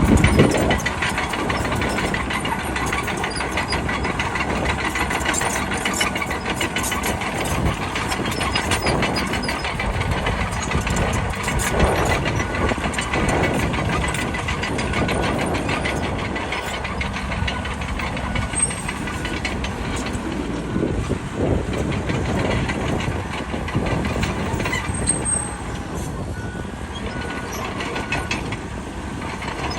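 Bulldozer's diesel engine running steadily, with a dense clatter of knocks and rattles throughout.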